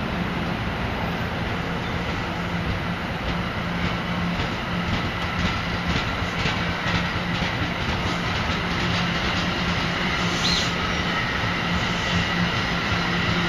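NJ Transit commuter train of double-deck Multilevel coaches rolling past, wheels clicking over the rail joints, over a steady low hum. A brief high wheel squeal comes about ten seconds in.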